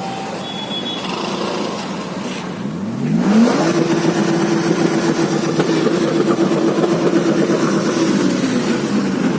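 A vehicle engine revving up over street traffic: its pitch climbs quickly about three seconds in, then holds steady and loud for several seconds, dipping slightly near the end.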